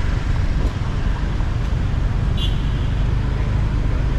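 Motorbike and traffic noise heard from the back of a moving motorbike in city traffic: a steady, heavy rumble with a short high beep about two and a half seconds in.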